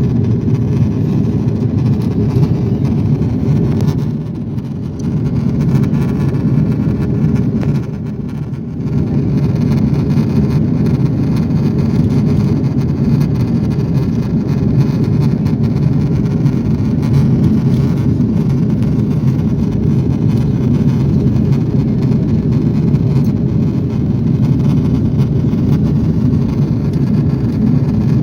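Steady low rumble of an Airbus A340 airliner's engines and airflow heard inside the cabin, dropping briefly twice, about four and eight seconds in.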